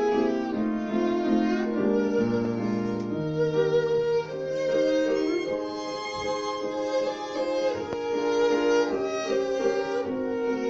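Piano trio of violin, cello and piano playing chamber music, with the violin's bowed melody carrying above the other two.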